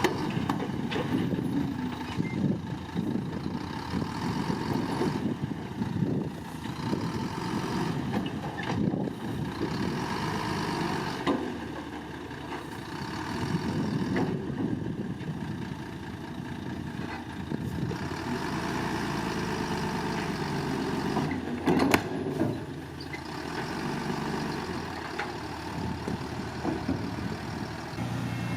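Heavy diesel construction machinery running and working, its engine note rising and falling unevenly, with a sharp knock near the end.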